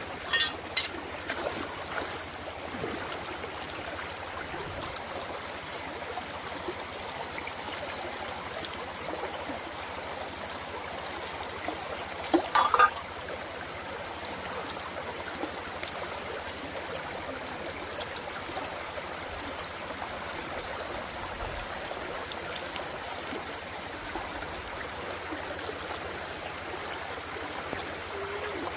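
Steady rush of running stream water, with a few sharp clicks and knocks near the start and a louder cluster of knocks about halfway through.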